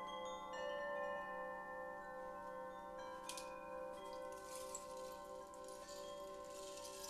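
Chimes ringing in long, overlapping tones that hang in the air, some with a slow wavering pulse. About three seconds in, a soft, rain-like rustling hiss joins and grows fuller.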